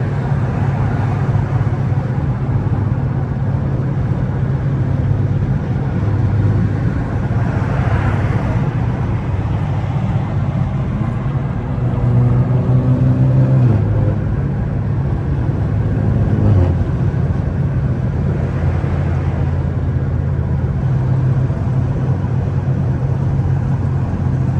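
BMW 3 Series engine and exhaust droning steadily while cruising on a wet road, with tyre and road noise underneath. The engine pitch shifts a couple of times around the middle.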